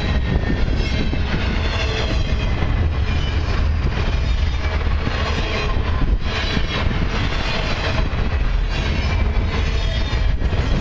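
Cars of a long loaded Expressway intermodal freight train rolling past close by: a steady rumble of steel wheels on rail with a thin wheel squeal over it. Two louder clacks from the wheels come about halfway through and near the end.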